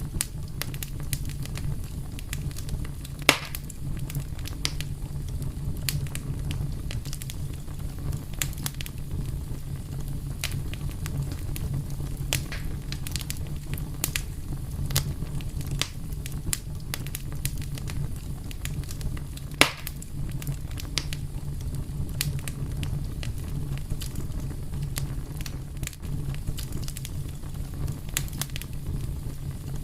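Wood fire crackling over a steady low rumble, with frequent small pops and snaps and two louder pops, about three seconds in and near twenty seconds in.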